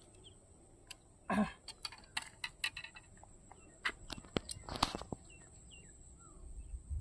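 Faint rural outdoor ambience: scattered short bird chirps over a steady high thin buzz, with brief rustles about a second and a half in and near five seconds, and scattered sharp clicks.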